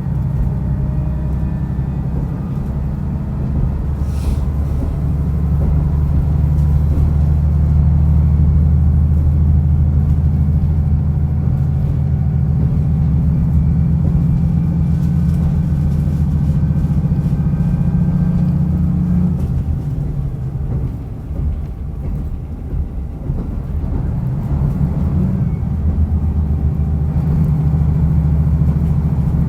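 Diesel railcar running along the line, its engine droning steadily under power. About two-thirds of the way through the drone drops away for a few seconds, as the throttle eases, then builds again near the end.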